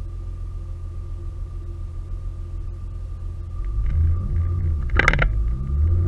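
Turbocharged Audi 3.0-litre V6 heard from inside the cabin, idling steadily, then revving harder about three and a half seconds in, its pitch climbing as the car pulls away. A short, sharp burst of noise about five seconds in is the loudest moment.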